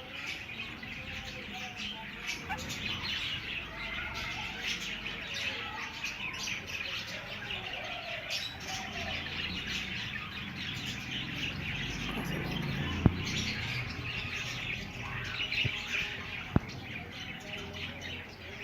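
A colony of budgerigars (budgies) chattering and warbling continuously, many birds chirping at once. Two sharp clicks stand out, one about two-thirds of the way through and another near the end.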